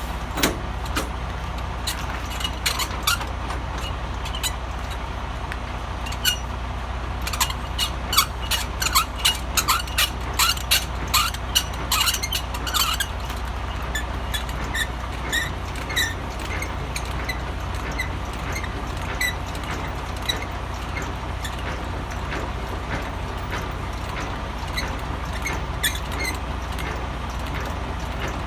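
Semi-truck's diesel engine running steadily, with scattered clicks and short squeaks over it that are thickest around the middle.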